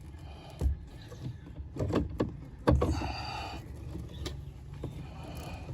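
Worn rubber pad being pried and pulled off a car's brake or clutch pedal: a few irregular knocks, the loudest nearly three seconds in, and a short scraping rub.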